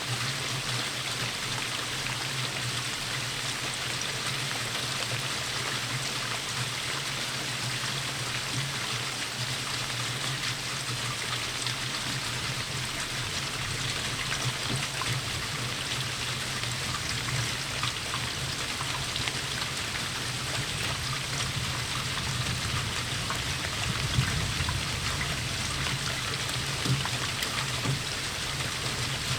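Steady rainfall, an even hiss of drops with scattered louder drips, a few standing out in the second half.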